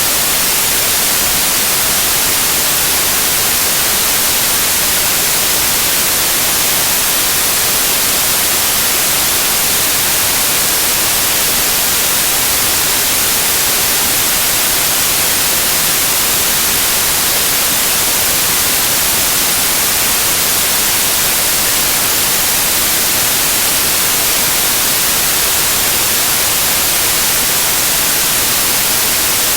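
Loud, steady white noise: an even hiss with no changes, strongest in the high frequencies.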